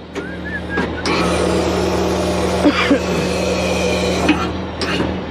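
Semi-truck diesel engine idling steadily. A loud hiss starts about a second in and cuts off about three seconds later, with a few clanks along the way.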